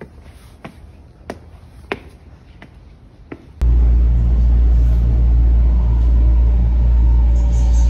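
Footsteps tapping on concrete steps, about three every two seconds, then an abrupt cut to the loud, steady low rumble of a moving train heard from inside the car, with a faint steady whine.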